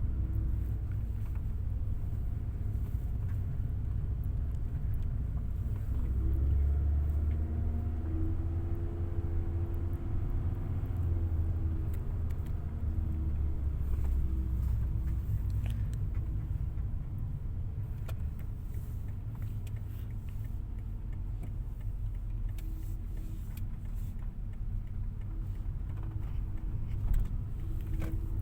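Car driving, heard from inside the cabin: a steady low engine and road rumble, growing louder about six seconds in as the engine note rises for several seconds.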